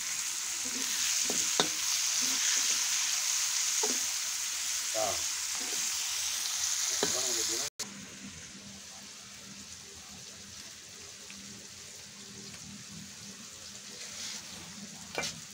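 Chilies, shallots, tomatoes and garlic sizzling in hot oil in a wok, with a metal spatula scraping and clicking against the pan as they are stirred. About eight seconds in the sound cuts abruptly to a much quieter, steady hiss.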